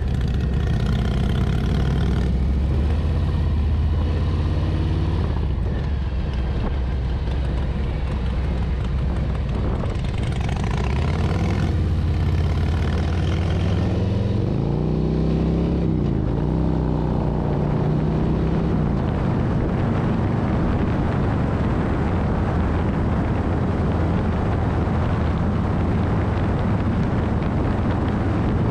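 Harley-Davidson Street Bob's V-twin engine running under way, with wind rushing over the handlebar-mounted microphone. About halfway through the engine pitch dips and rises again, and after that the wind and road noise cover the engine.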